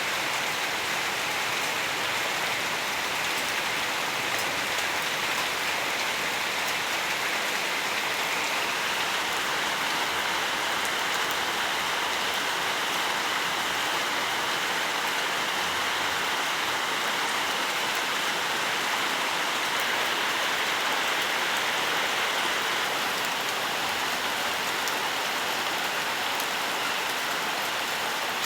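Steady rain falling, a dense even patter of drops on leaves and surfaces.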